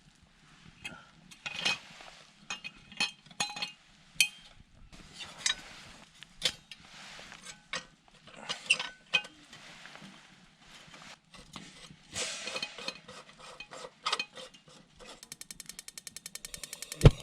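Irregular clicks, knocks, clinks and short scrapes of hard objects being handled, ending in a fast, even ratcheting rattle in the last two seconds.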